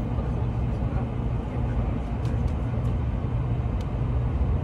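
Cabin noise inside a moving Shinkansen bullet train: a steady low rumble with an even rushing sound.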